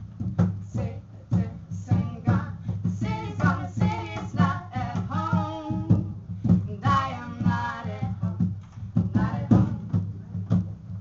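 A song with a singer's voice over a steady, driving beat of low pulses, about three strokes a second.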